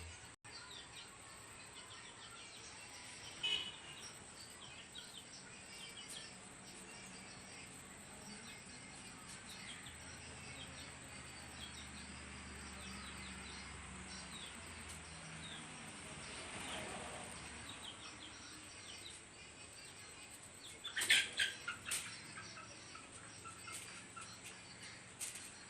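Birds chirping: scattered short calls, with one sharp louder call about three and a half seconds in and a cluster of louder, sharper calls about 21 seconds in.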